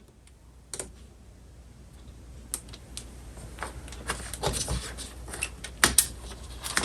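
Metal parts of a Rock-Ola jukebox write-in read-out mechanism clicking and clattering as the unit is handled and pulled apart by hand. It starts as sparse light clicks and grows into a busier run, with a couple of sharper knocks near the end.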